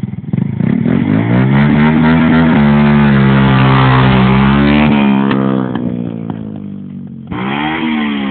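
Motorcycle engine revved hard and held at high revs against the rev limiter for a few seconds, then let fall back. A second, shorter blip of the throttle comes near the end.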